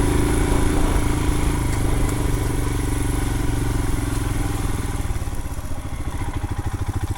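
Royal Enfield Himalayan's single-cylinder engine running steadily. About five seconds in, its firing pulses turn slower and more distinct as the revs drop.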